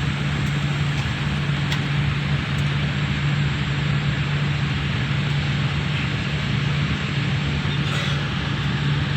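Airliner cabin noise after touchdown: a steady rush of engine and airflow with a constant low hum, and a few faint rattles.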